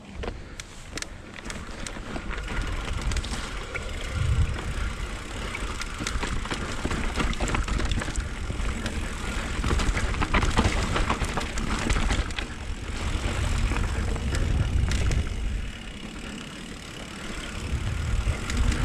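Mountain bike riding a dirt trail: tyre noise and the bike's frequent clicks and rattles. Wind rumbles on the camera's microphone, swelling and easing as the speed changes.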